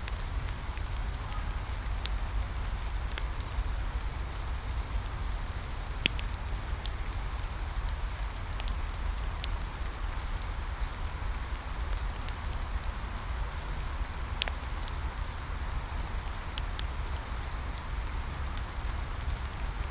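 Steady rain falling, with a wood fire crackling and giving sharp pops every second or so. A low rumble runs under it.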